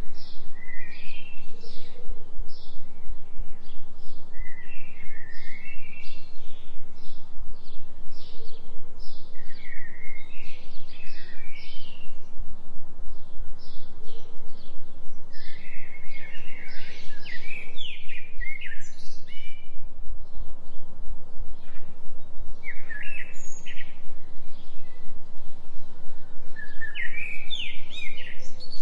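Songbirds chirping and warbling in short repeated phrases, over a low steady tone that pulses evenly several times a second: a 3 Hz delta binaural-beat tone.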